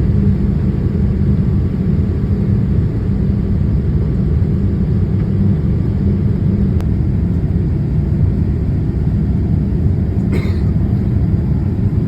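Steady low roar inside the cabin of a Boeing 787-8 Dreamliner during takeoff, from its GEnx-1B engines at takeoff thrust and the rush of air past the fuselage. A brief click comes about ten seconds in.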